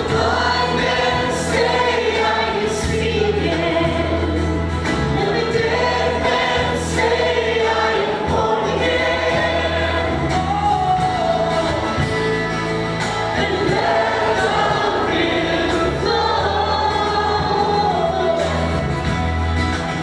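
Worship song sung by a group of voices over a band, with steady bass notes under the singing.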